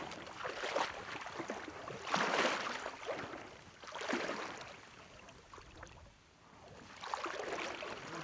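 KTM 350 XC-F dirt bike ridden over rough, rocky trail: engine, tyre and wind noise on the helmet mic surge and fade every couple of seconds, with scattered sharp knocks and clicks.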